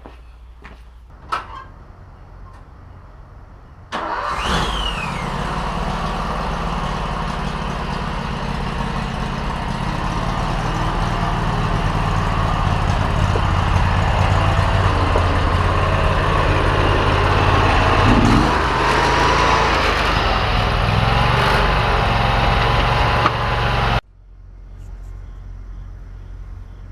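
Lawn tractor's Predator 670 cc V-twin engine running: it comes in abruptly about four seconds in after a few faint clicks, grows gradually louder, and cuts off suddenly near the end.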